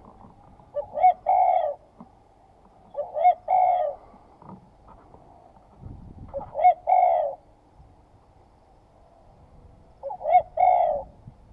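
A dove cooing four times, a few seconds apart, each call a short note running into a longer one.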